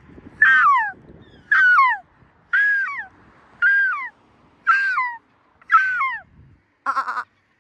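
Seagull calling: a series of six loud wailing calls, each sliding down in pitch, spaced about a second apart, followed near the end by a short, rapid stuttering call.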